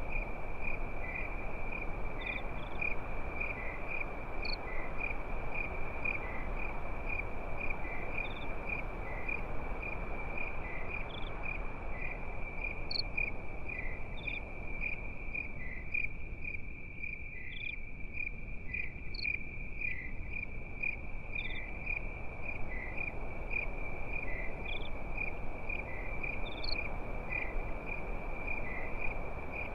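Crickets chirping steadily at one high pitch, pulsing a few times a second, with occasional sparser, higher single chirps. Beneath them runs a steady low hiss that fades a little in the middle and comes back.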